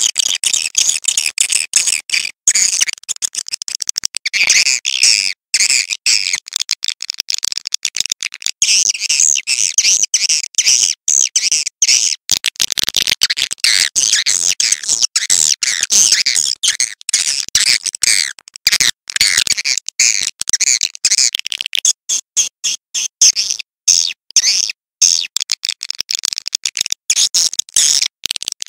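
Swiftlets twittering: a dense, continuous mass of high, rapid chirps, cut by many brief gaps that make it sound choppy. It is a recorded swiftlet call track of the kind played to draw swiftlets into a nesting house.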